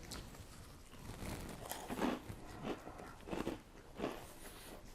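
A person chewing crunchy Cheetos, faint crisp crunches about one every two-thirds of a second, starting about a second in.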